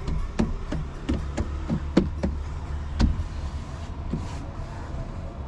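Irregular knocks and clicks, several a second, over a steady low rumble; the loudest knocks come about two and three seconds in.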